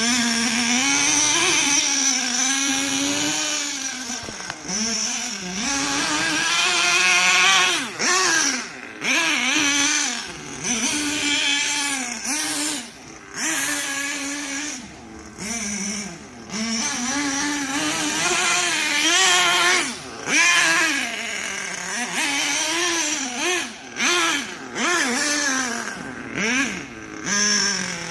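Small nitro engine of an HPI Savage radio-controlled monster truck revving up and down as it is driven, its pitch rising and falling with the throttle and dropping back many times in short lulls.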